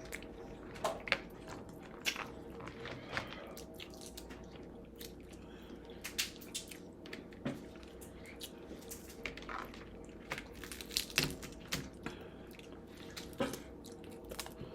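Boiled crab being cracked open and picked by hand and eaten close to the microphone: irregular shell cracks and clicks mixed with chewing and wet squishing, over a faint steady hum.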